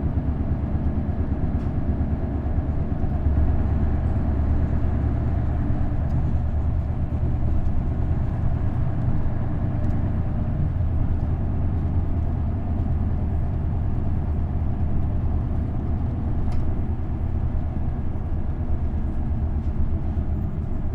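Isuzu Erga bus's V8 diesel engine and drivetrain running steadily while the bus is under way, a continuous low drone with road noise.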